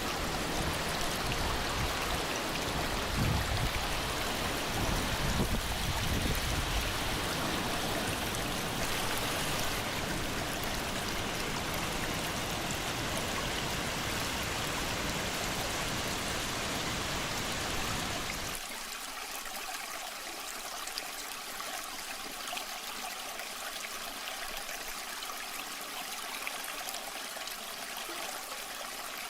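Waterfall and stream water rushing steadily with a deep low rumble; a little over halfway through it cuts abruptly to a thinner, slightly quieter trickling flow without the rumble.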